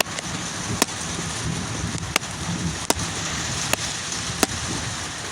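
Steady rain with a low rumble of thunder underneath, and five sharp ticks of close raindrops spread through.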